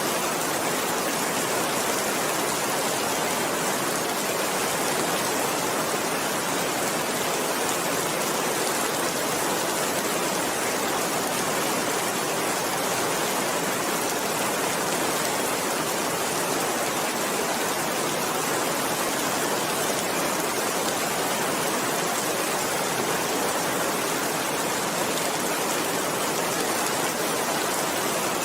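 Steady rain falling, an even hiss that holds at the same level without breaks.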